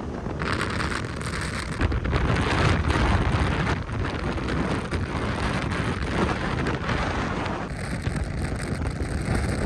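Wind rushing and buffeting over the microphone of a moving Royal Enfield Classic motorcycle, with the bike's engine and road noise under it. It is a steady, rough noise that swells and eases.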